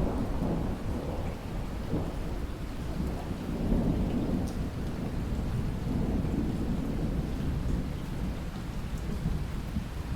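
Steady rain with a low rolling rumble of thunder that swells and fades a few times.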